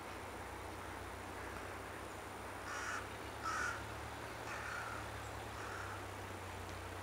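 A bird calling four times, about a second apart, starting about three seconds in, the first two calls louder than the last two.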